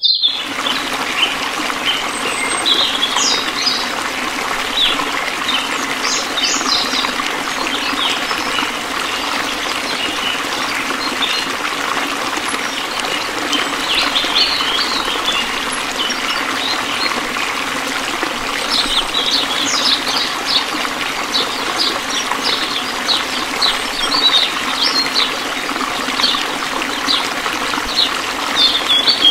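A thin stream of water pouring from a small pipe into a metal tub partly filled with water, trickling and splashing steadily.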